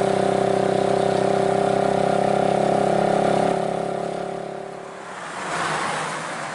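Heavily loaded Nissan Euro diesel truck's engine running steadily under load on a steep climb, holding one pitch, then fading out about three and a half seconds in and giving way to a rushing noise.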